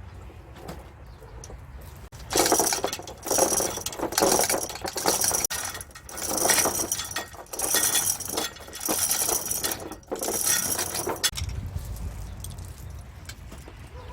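Metal parts clinking and rattling against each other in a run of about eight jangling bursts, roughly a second apart, that stop about 11 seconds in.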